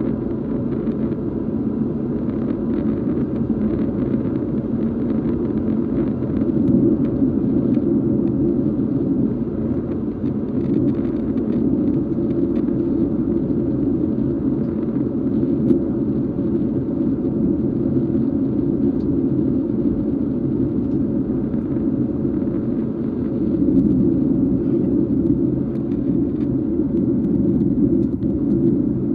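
Cabin noise inside a Boeing 737: a steady low drone of engines and airflow with a few constant humming tones underneath.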